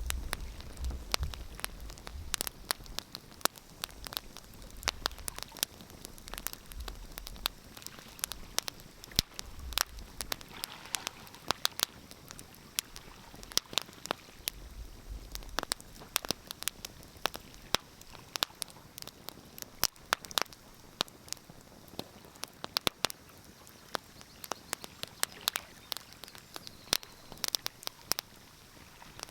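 Wood fire crackling, with many irregular sharp pops and snaps over a soft hiss, and a few low rumbles in the first half.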